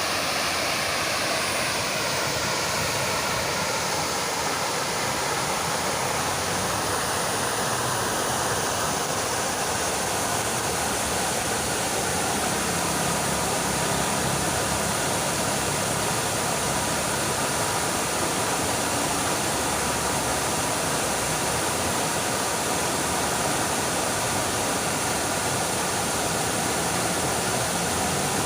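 Fountain water splashing steadily, an even rushing noise. Under it, a faint engine drone falls in pitch over the first few seconds, and a faint steady hum comes in about halfway through.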